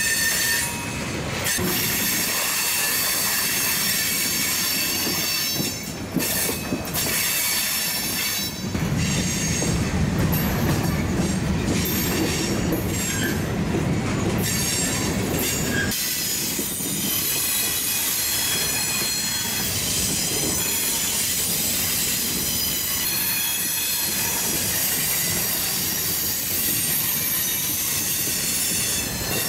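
Freight cars of a long mixed freight train rolling past, the wheels rumbling on the rails with steady high-pitched wheel squeal over it. A heavier, deeper rumble swells from about a third of the way in and eases around the middle.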